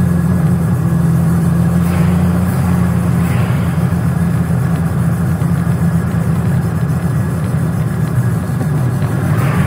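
1969 Triumph Spitfire Mk3's four-cylinder engine running at a steady pace while the car drives along, heard from the cockpit, with tyre and wind noise.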